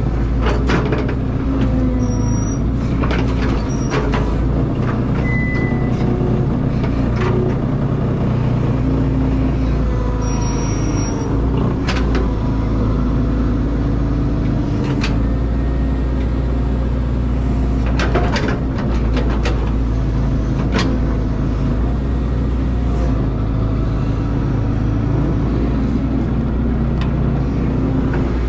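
Caterpillar excavator's diesel engine running steadily under load, its pitch rising and falling slightly as the hydraulics work, with a few sharp knocks scattered through.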